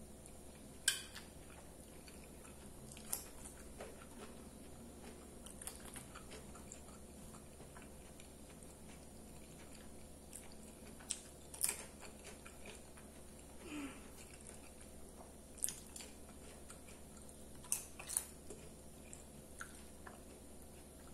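Close-miked chewing and mouth sounds of a person eating rice, beans and French fries, soft and low, with a handful of short sharp clicks scattered through.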